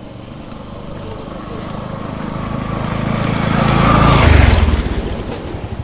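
A small engine vehicle drives past close by: its engine and tyre noise grow steadily louder, peak about four seconds in, then fade away.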